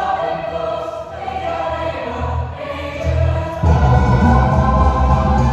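Choir singing sustained chords. About three and a half seconds in, a loud low accompaniment comes in suddenly and the music grows louder.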